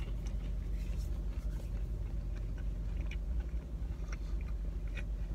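Close-up chewing of a fried chicken nugget, with soft wet mouth clicks and smacks, over a steady low hum.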